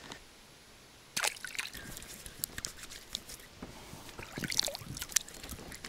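Water dripping and splashing lightly: a scatter of small, sharp drips and splashes begins about a second in, after a brief quiet.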